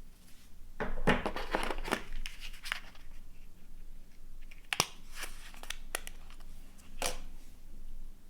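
Packaging of a phone's retail box being handled: crinkling and rustling for about a second, then a few sharp clicks and taps.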